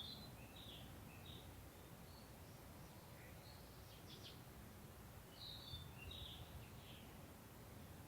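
Faint songbird chirps in short clusters, near the start, in the middle and again past halfway, over a low steady background hum.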